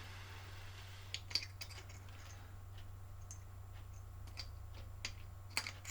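Scattered light clicks and taps of small tools and parts being handled while soldering wiring connectors, over a steady low hum.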